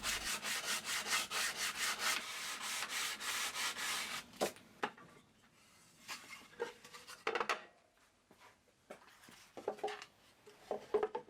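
Sandpaper rubbed by hand over a wooden lid liner in quick back-and-forth strokes, taking off a little material so a tight lid will fit. The sanding stops about four seconds in, and a few light wooden knocks and clicks follow as the pieces are handled.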